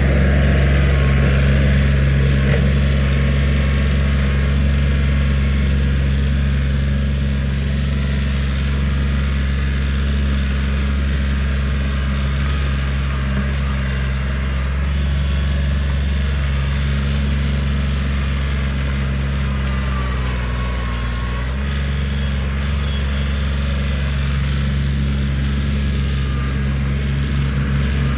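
Kioti 4010 tractor's diesel engine running steadily, with a brief dip in pitch about two-thirds of the way through before it picks back up.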